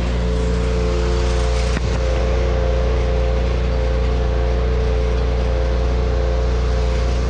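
Pressure washer's gas engine and pump running steadily at full flow, with water jetting out into a 5-gallon bucket during a flow test with the chemical injector hooked up. A brief click about two seconds in.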